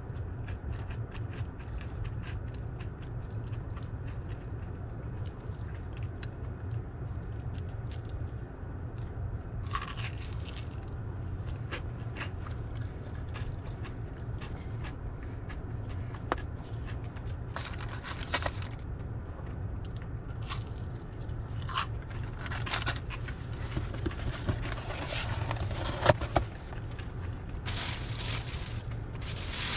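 A man chewing crunchy fried battered fish, with small mouth clicks over a steady low hum in a car cabin. In the second half, paper and a cardboard food box rustle and scrape in several short bursts, more of them near the end.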